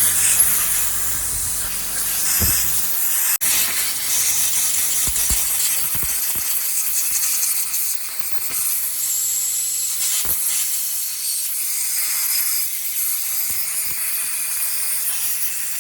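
Compressed air blowing through motorcycle carburettor passages: a long, steady high hiss, with a few light knocks of the part being handled.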